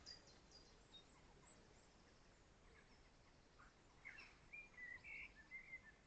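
Near silence with faint wild birds calling: a few short chirps and whistles, bunched together near the end.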